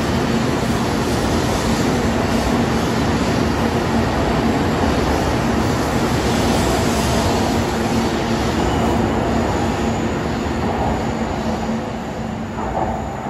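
Kyushu Shinkansen train moving along the platform and pulling away: a steady rushing run noise with a low steady hum. It fades near the end as the last car clears.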